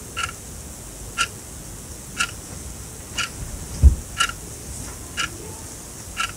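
Sonam quartz alarm clock ticking, one short sharp tick each second as the second hand steps, seven ticks in all. A single low thump about four seconds in is louder than the ticks.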